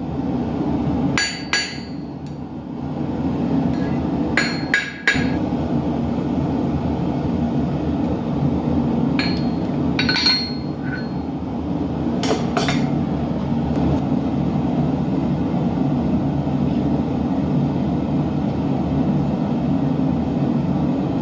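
Hand hammer striking steel on an anvil while forging bodkin arrowheads: scattered blows in twos and threes in the first half, each with a short metallic ring, then no more strikes. Under it, the steady low roar of a gas forge runs throughout.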